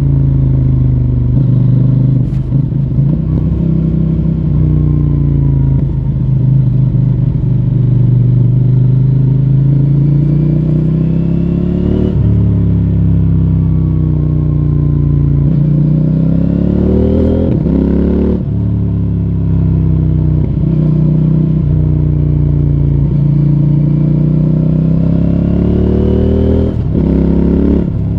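CFMoto 800NK Advanced's parallel-twin engine through its stock exhaust, ridden hard. The pitch climbs steadily under acceleration and drops sharply at each gear change, about four times.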